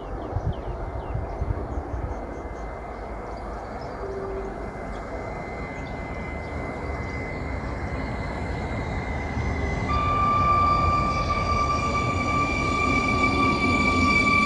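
Train rumbling past on the station tracks, a steady low rumble that slowly grows louder. About ten seconds in a steady high tone with overtones joins it and holds, and a few bird chirps are heard near the start.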